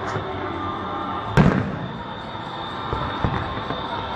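Fireworks going off: one loud bang about a second and a half in, then a couple of fainter pops near the end.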